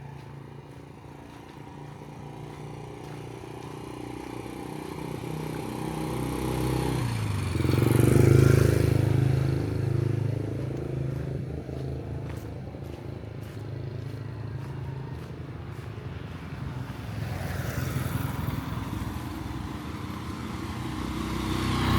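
A motor vehicle's engine passing by on a street, growing louder to a peak about eight seconds in and then fading, with a second, quieter vehicle going by near the end.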